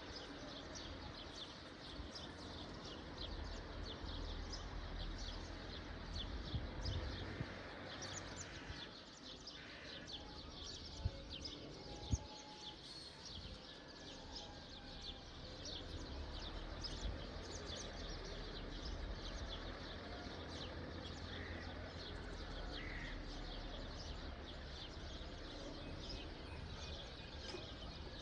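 Many small birds chirping busily over a steady low rumble of outdoor background noise, with two sharp clicks about a second apart near the middle.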